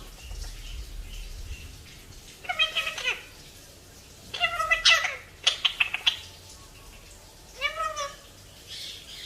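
Pet parrot making three drawn-out meow-like calls, a cat imitation, with a quick run of sharp clicks between the second and third calls.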